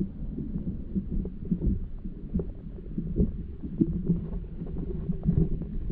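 Muffled low rumbling with irregular soft knocks and bubbling, from a camera held under swamp water.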